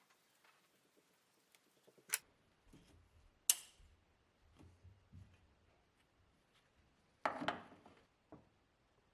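Hand tools and metal parts being handled: a few sharp metallic clinks and knocks, then a longer clatter near the end.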